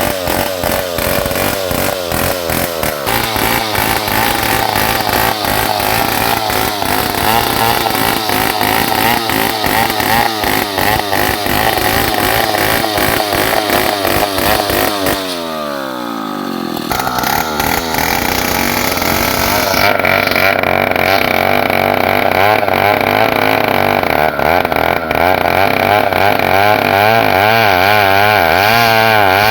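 New West 707 two-stroke chainsaw ripping lengthwise through a Borneo ironwood (ulin) log, its engine pitch wavering under load. About halfway through the engine speed drops sharply, then picks back up and runs under load again.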